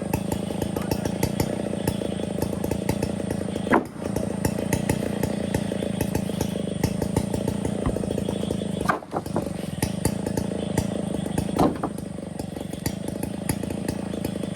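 Stihl 070 two-stroke chainsaw running steadily at high revs, with brief drops in level about four, nine and twelve seconds in.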